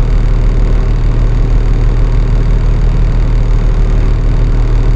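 Flatbed straight truck's engine idling steadily, a loud, even low hum with no revving.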